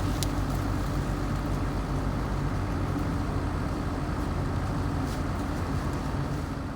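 Heavy logging machine's diesel engine running steadily, a constant low hum with no change in speed.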